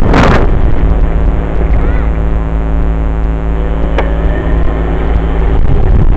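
Dirt bike engine running at steady revs under heavy wind rumble on the microphone, with a loud rush just after the start and a sharp click about four seconds in.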